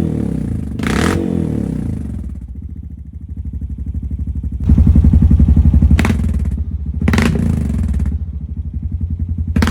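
Honda Rubicon ATV's single-cylinder engine running cold through a full HMF performance exhaust, idling unevenly and sputtering, with the throttle blipped up about a second in and again around halfway. A few sharp cracks come through near the end; the sputtering is from the engine still being cold.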